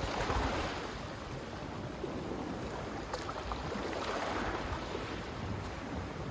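Sea waves washing in, with a swell of surf hiss at the start and another about four seconds in, over a low rumble.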